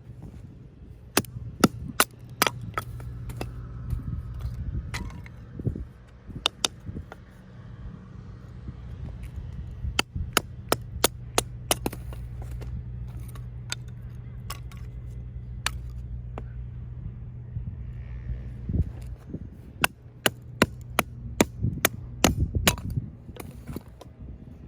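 Irregular sharp knocks and clacks, coming in clusters with short gaps, over a steady low hum.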